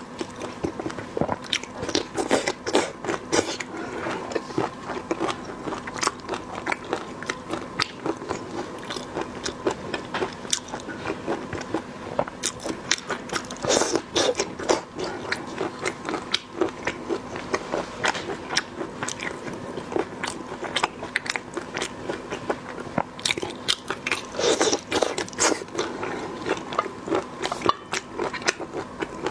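Close-miked eating: a person biting and chewing food, with crunching and many quick irregular clicks.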